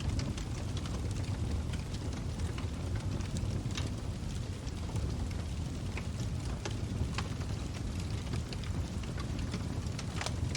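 Log fire burning in a fireplace, a steady low rumble of flames with scattered sharp crackles and pops throughout.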